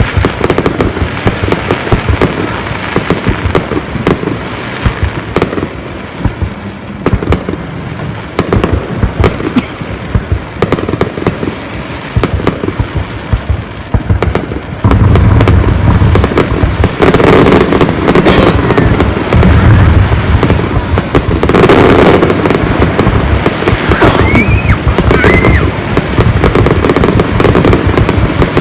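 Fireworks display: a rapid, continuous stream of crackling bangs from bursting shells, turning louder with deep booms about halfway through. A brief whistle rises through the bursts near the end.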